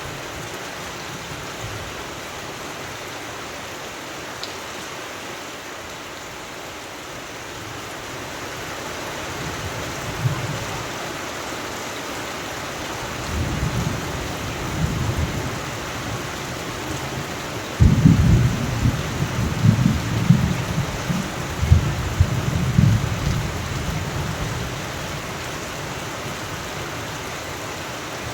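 Steady rain falling, with thunder rumbling in through the middle. A sudden loud clap about eighteen seconds in is followed by several seconds of rolling rumbles.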